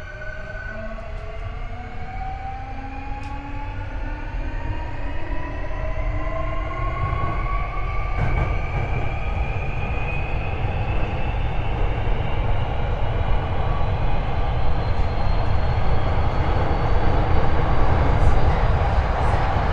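Hankyu 8300 series train's Toyo IGBT-VVVF inverter and traction motors whining as the train accelerates. A steady high tone gives way, about a second in, to several tones rising steadily in pitch. Wheel and running noise grows louder as speed builds.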